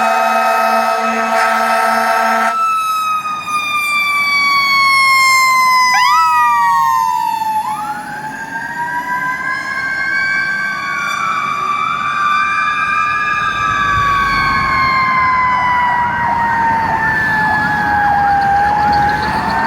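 Fire truck siren wailing in slow falling and rising sweeps. A second siren tone joins about six seconds in, with quick upward sweeps and later short rapid chirps. A low, evenly pulsing tone sounds over the wail for the first couple of seconds and then stops.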